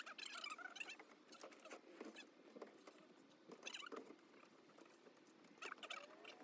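Faint, irregular clicks, scrapes and short squeaks.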